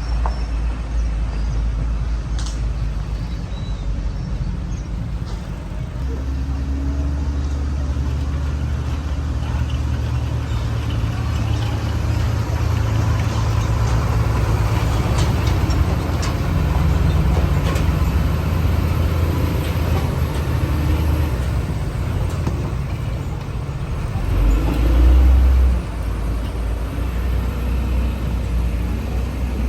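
Bulldozer's diesel engine running under load with a steady low drone. It works harder about six seconds in, and a short, louder low surge comes near the end.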